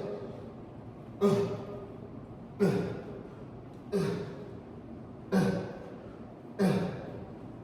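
A man's forceful voiced exhales or grunts of effort, one at each repetition of a chest exercise, five of them evenly spaced about every second and a third, each dropping in pitch as it fades.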